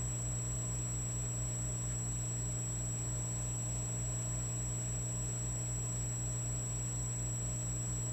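Electric fireplace log set running with a steady electrical hum and buzz, a low throb pulsing about four to five times a second under it, and a thin high whine.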